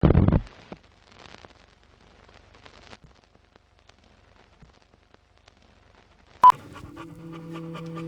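A loud sudden hit at the start, then a dog panting faintly. A sharp crack comes about six and a half seconds in, and music with held notes begins just after it.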